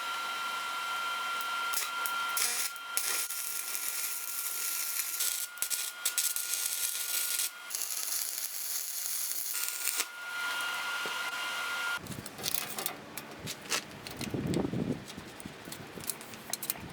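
Electric power tool running with a steady high whine and a hiss, as when cutting or grinding steel; it stops about twelve seconds in, and irregular clicks and knocks of metal being handled follow.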